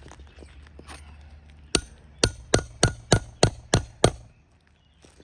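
Shingle hammer striking a nail puller eight times to pull a roofing nail from an asphalt shingle: one blow, a short pause, then about three sharp blows a second.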